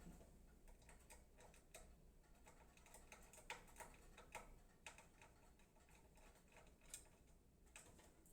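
Near silence with faint, scattered clicks and light taps, a few each second.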